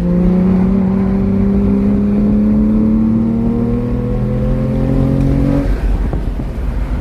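Car engine accelerating hard, its pitch rising steadily for about five and a half seconds, then dropping off near the end at a gear change before pulling again.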